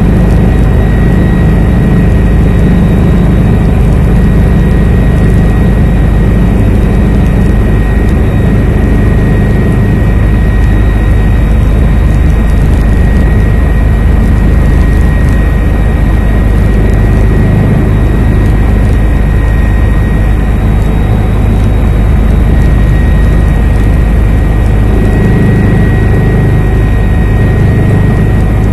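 Helicopter in flight, its engine and rotors running loud and steady, with a thin steady whine above the low rumble.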